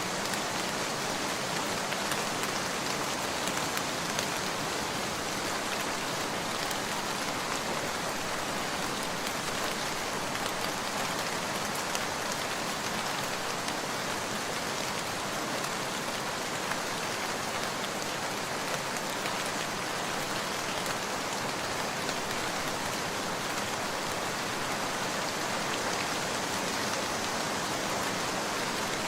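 Steady rain, an even hiss that does not change, with faint scattered ticks throughout.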